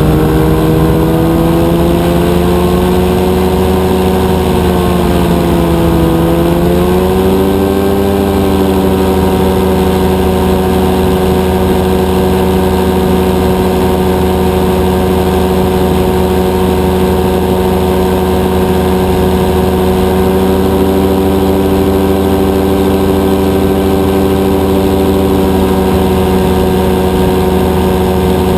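Rotax 582 two-stroke engine and propeller of a powered parachute running steadily at cruise power. The engine note sags briefly a few seconds in, then climbs back and holds.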